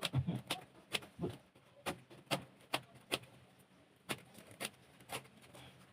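A run of sharp clicks or taps, about two a second, growing fainter toward the end.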